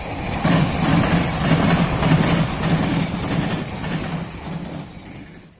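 Suburban electric local train passing on the line, its wheels rumbling and clattering over the rails. The sound swells within the first second, holds, then fades away near the end.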